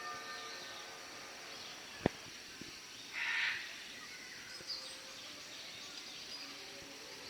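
Outdoor background noise with faint bird chirps, a single sharp click about two seconds in, and a brief hissy burst about a second later.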